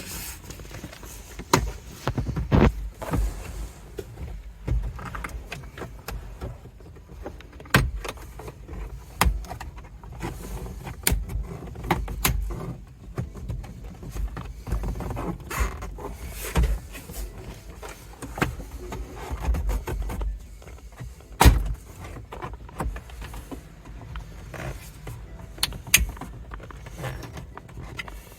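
Plastic interior trim clips and panels of a Toyota 4Runner being pried loose and handled: irregular clicks, snaps and knocks, the loudest knock about 21 seconds in.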